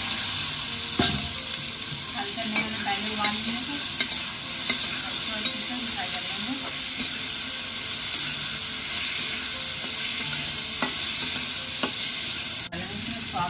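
Black chickpeas (kala chana) sizzling in hot oil in an aluminium kadai. A flat spatula scrapes and clicks against the pan now and then as they are stirred.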